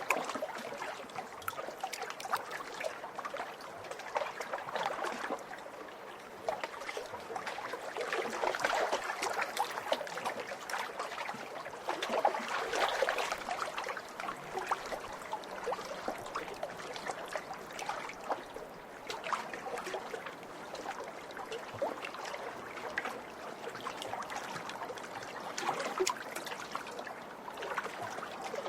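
Small lake waves lapping and splashing against the shore, a continuous irregular patter of little splashes that swells and eases every few seconds.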